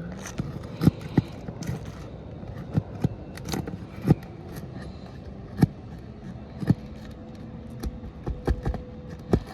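Irregular sharp knocks and scrapes of metal roofing tools against asphalt shingles and nails, about a dozen strikes spread unevenly, as old rusted nails are worked out from under a 3-tab shingle.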